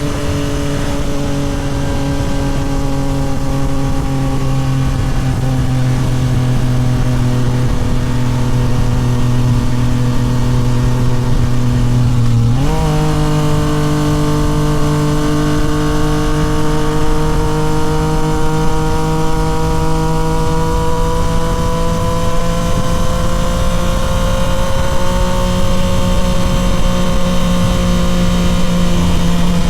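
Yamaha MT-09 SP's inline three-cylinder engine through a Toce full exhaust, cruising on the road: the engine note slowly drops off for about twelve seconds, jumps up sharply as it changes to a lower gear, then climbs gradually as the bike picks up speed.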